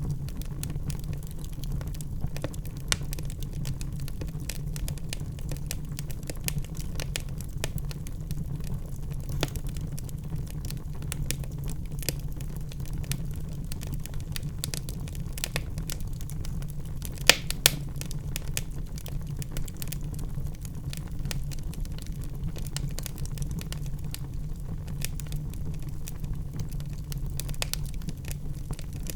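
Fireplace fire crackling, with a steady low rumble of flames under many small snaps and two louder pops close together a little past halfway.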